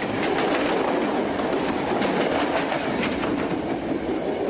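Mumbai suburban electric train running on the track, its wheels clattering over rail joints with scattered sharp clicks.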